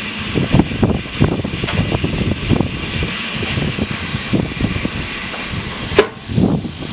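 Heritage railway carriage rolling along a station platform, heard from an open window: an uneven low rumble with a steady hiss over it, and one sharp knock about six seconds in.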